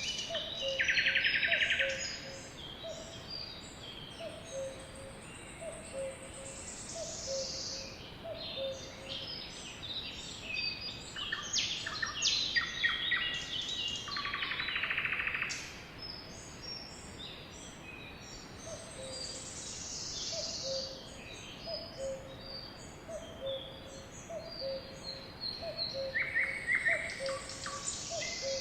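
Sparrows and other birds singing and calling, a dense mix of chirps and high whistles that slide down. Loud buzzy trills come about a second in, again around the middle, and near the end. Underneath, a low two-note call repeats steadily, fading out in the middle and coming back later.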